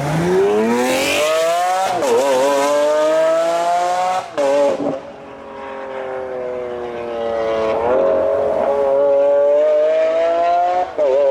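High-performance car engine accelerating hard through the gears, loud. The pitch climbs steadily, then drops briefly at each upshift, about 2, 4, 8 and 11 seconds in.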